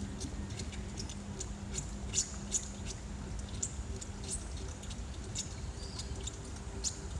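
Small birds chirping: short, high chirps, about two a second at irregular spacing, over a low steady hum.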